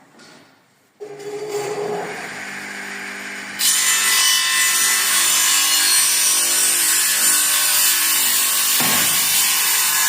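An electric power tool's motor starts up and runs with a steady hum; about three and a half seconds in a loud, steady hissing grind begins over it and keeps going.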